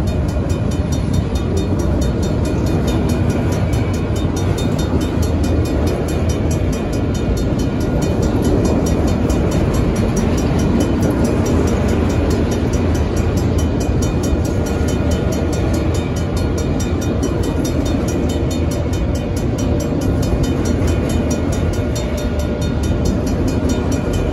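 Autorack freight cars rolling steadily through a grade crossing, their wheels rumbling and clattering on the rails. Over it the crossing's RACO mechanical bells ring on without a break in a fast, even strike.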